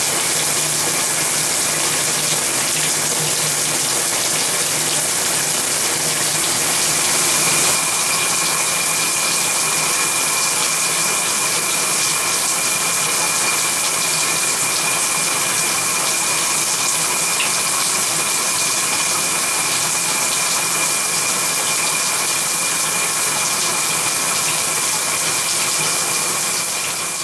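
Shower running: a steady hiss of water spray, with a faint steady high tone joining it about eight seconds in.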